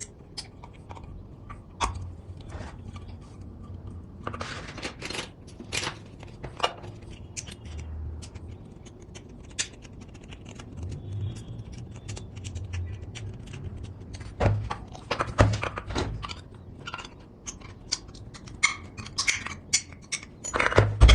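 Small hand-work sounds on cut aluminium drink-can pieces: scattered clicks, taps and light scrapes, with a few low thumps and a denser cluster of clicks near the end.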